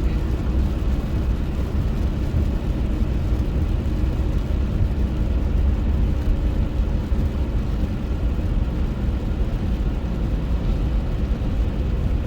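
Steady low rumble of a car driving, with road and engine noise and a faint steady hum.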